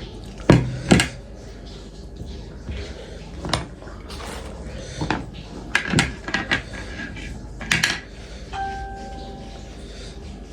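Cutlery clinking against dishes during a meal: several separate sharp clinks spread over the seconds, a few of them close together.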